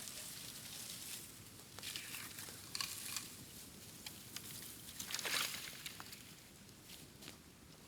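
Bamboo burning in an open bonfire: scattered crackles and sharp pops over a steady hiss, with a louder burst of hissing and crackling about five seconds in.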